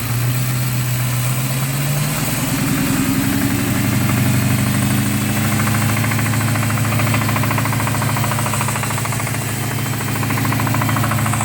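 2006 Dodge Charger R/T's 5.7-litre Hemi V8 running with a knocking noise, its speed stepping up slightly about two seconds in and then holding steady. The cause of the knock is not known.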